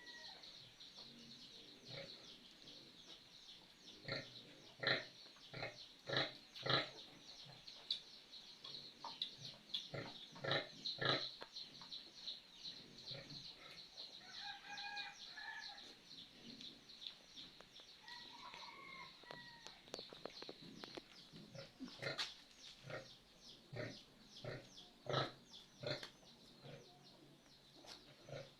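Farmyard animal sounds: pigs grunting in short irregular bursts, with chickens clucking and giving a few short calls, over a steady high chirring.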